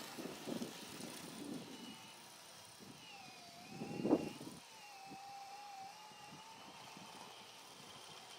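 A '480' motor running, giving a high, steady whine that wavers slightly in pitch from about three seconds in, with one short louder burst about a second later.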